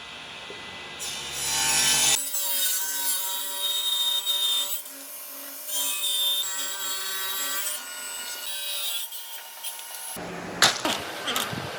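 Power tools working wood: cutting and grinding noise with a running motor's whine. The sound changes abruptly about two seconds in and again near the end.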